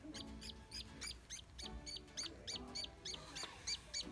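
Budgerigar chick calling with a steady run of short, high chirps, about three or four a second: the begging call of a young chick in the nest.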